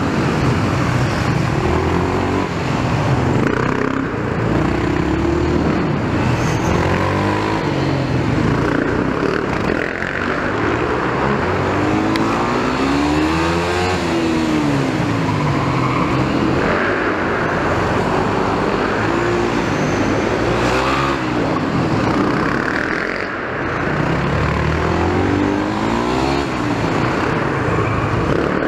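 A 250 cc Yamaha supermoto's engine, ridden in second gear, revving up and dropping back every few seconds as it pulls out of each corner and shuts off for the next.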